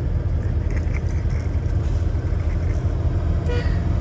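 Steady low rumble of a semi truck's diesel engine heard from inside the cab, with a brief pitched sound about three and a half seconds in.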